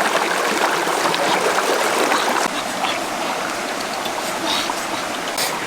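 Running water, a steady rushing like a stream.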